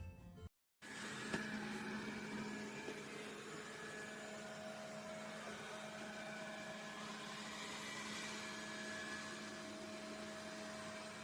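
Dreame D20 Pro Plus robot vacuum system's motor running steadily: an even whirring hiss with a constant low hum and a thin whine over it, starting just after a brief cut to silence near the beginning.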